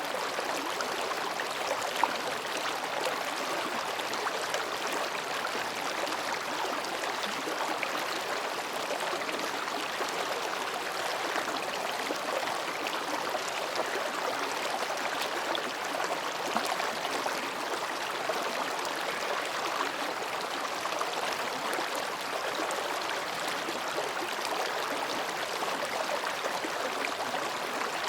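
Mountain stream babbling steadily over and between rocks, an even rushing of water with fine gurgling detail. One brief click stands out about two seconds in.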